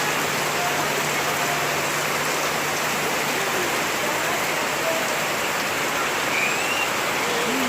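Heavy rain falling steadily, with a few faint short chirps over it.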